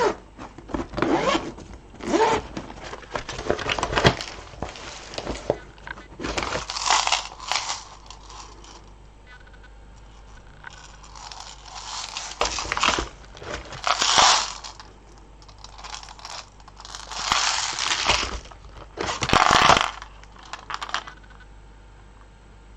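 Beads and their small containers being handled and sorted by hand. The sound comes in bursts of clicking and rustling, each one to two seconds long, with quieter gaps between them.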